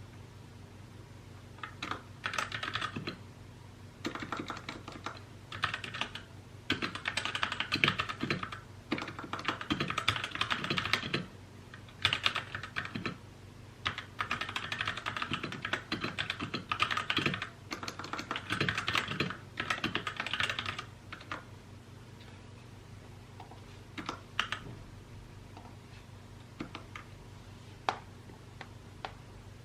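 Typing on a mechanical keyboard: quick runs of keystrokes broken by short pauses for about twenty seconds, then only a few isolated key clicks.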